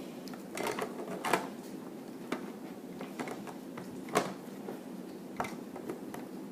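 Scattered clicks and light knocks of plastic Lego pieces being handled, a few close together about a second in, then single ones spread apart.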